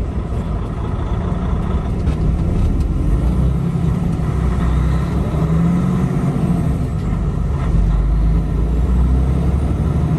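Semi-truck's diesel engine droning steadily with road noise, heard from inside the cab while driving; the engine's pitch shifts slightly a few times.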